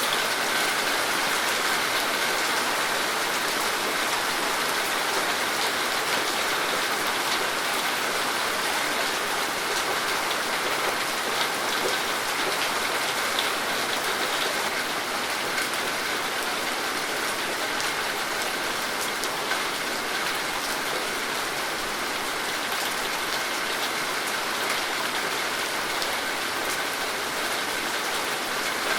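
Steady rain falling, an even hiss of drops with many small individual drop ticks.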